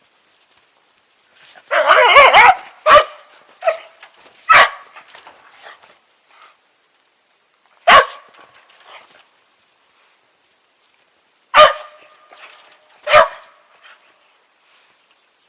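Dog barking: a quick run of barks about two seconds in, then single barks every few seconds.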